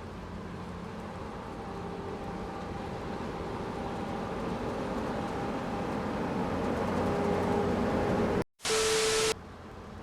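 Steady vehicle rumble and road noise, slowly growing louder over about eight seconds. It breaks off briefly near the end, followed by a short, loud burst of hiss.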